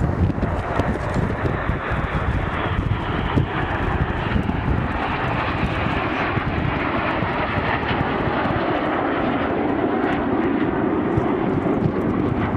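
An aircraft engine in flight during an airshow display, running steadily, with wind rumbling on the microphone.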